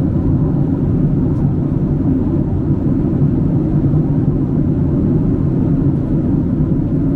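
Steady low rumble inside the cabin of a Boeing 767-300 airliner: engine and cabin noise holding level, without any change.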